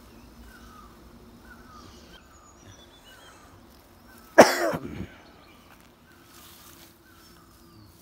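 A bird calling over and over with short falling chirps, a little under one a second. A little past halfway there is one brief, much louder sound lasting about half a second.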